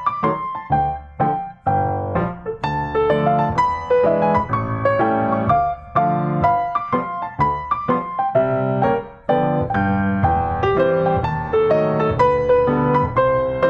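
Background piano music: a steady flow of single struck notes and chords.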